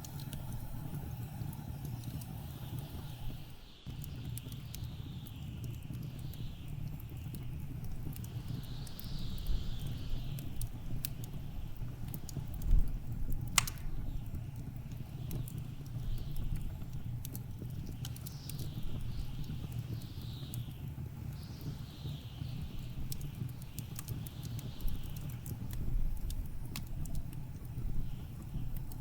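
Wood fire crackling, with many small snaps and one sharp pop about halfway through, over a low steady rumble, while blizzard wind gusts hiss and fall away every few seconds.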